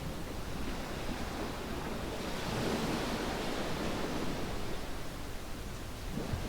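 Waves washing onto a sandy beach, a steady wash that swells as a wave rolls in and then falls back, with a dull low thump near the end.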